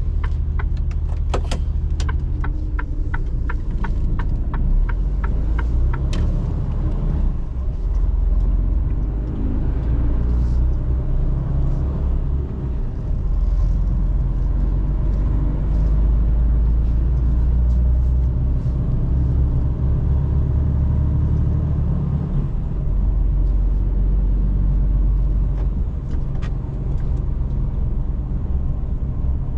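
Mercedes-Benz Actros truck's diesel engine running under way with a steady low rumble. For about the first six seconds a run of evenly spaced short ticks, about two to three a second, sounds over it.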